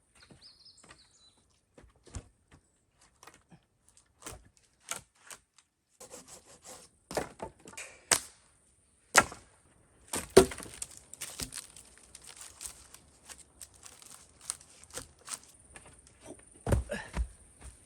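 Wooden sticks knocking and clattering against each other as they are handled and set in place. The knocks come irregularly, with a few louder thuds near the middle and again near the end.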